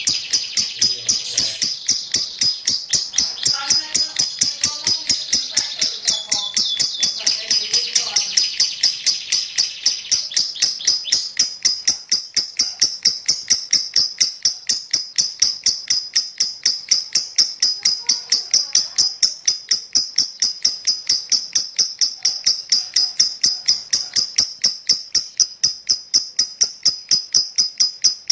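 Lovebird "ngekek": one long, unbroken run of rapid high chattering notes, about five a second, the sustained call that keepers prize in song contests. The first ten seconds or so are fuller and lower before the run settles into a thinner, steady chatter.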